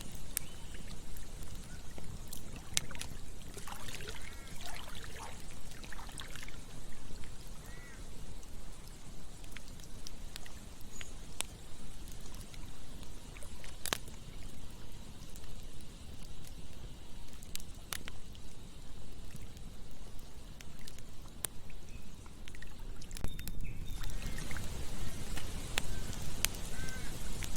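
Campfire crackling with scattered sharp pops, over the steady rush of a flowing river. A few faint short calls, likely birds, rise above the water in places.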